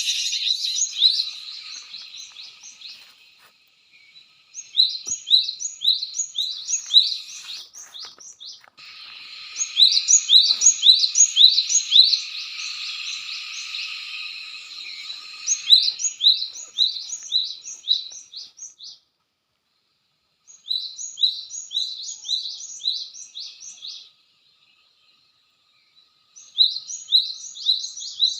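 Cinereous tit (gelatik batu) calling: repeated series of quick, sharp rising chirps, coming in several bursts of two to four seconds with short pauses between.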